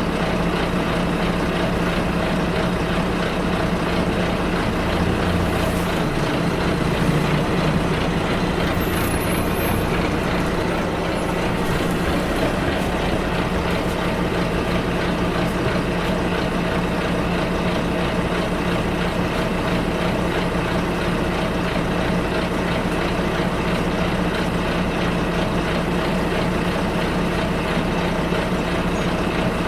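Bus on the move: a steady engine drone under road and cabin noise, with a slight shift in the engine's low hum a few seconds in.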